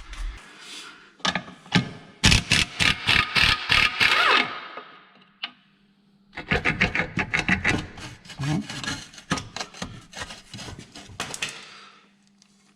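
Hand ratchet with a 17 mm socket clicking in quick strokes while turning bolts on the underside of a Volvo 240, in two runs with a short pause between.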